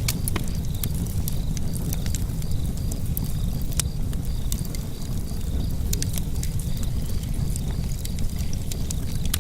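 A fire burning in a fireplace, crackling with frequent irregular sharp pops over a steady low rumble of the flames.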